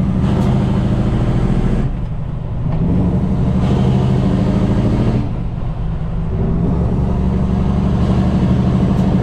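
Heavy truck's diesel engine pulling hard under a load of about 40 tonnes. The engine note drops away twice, about two seconds and five and a half seconds in, and then builds again each time, as it does through gear changes while accelerating.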